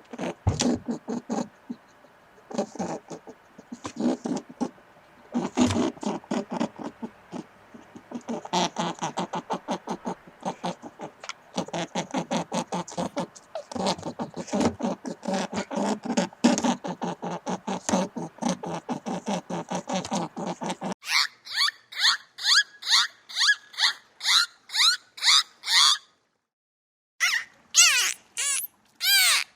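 Animal calls. For about twenty seconds, fast runs of low, rapidly repeated pulsed calls. Then, from about twenty-one seconds in, high-pitched chirping calls, a few a second, broken by a brief pause near the end.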